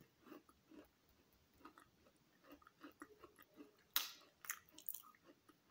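Faint close-up chewing of a crunchy chocolate chip cookie, soft regular chews with a few sharper, louder crunches about four seconds in.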